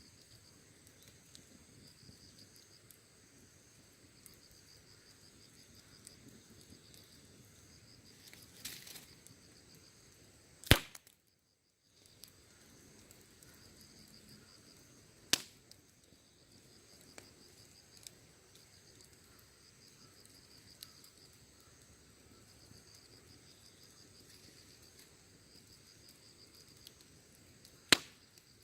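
Wood fire burning with sparse crackles and three sharp, loud pops, the last near the end. Crickets chirr steadily in the background.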